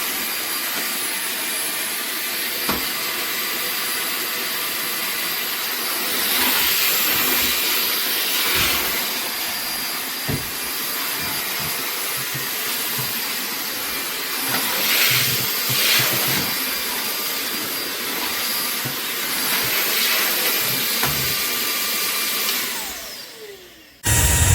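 SMOTURE cordless stick vacuum running, a steady rush of suction air that grows louder a few times. Near the end the motor winds down with a falling pitch, and a sudden low thump follows.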